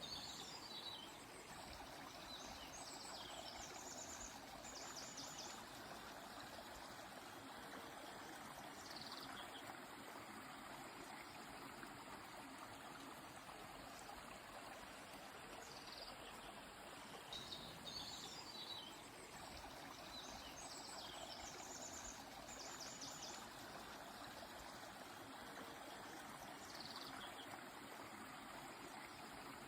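Steady rush of a flowing river, with a bird singing short high chirping phrases now and then above it.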